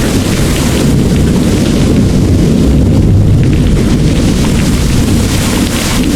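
Heavy rain pouring with a low rumble of distant thunder underneath, heaviest about halfway through.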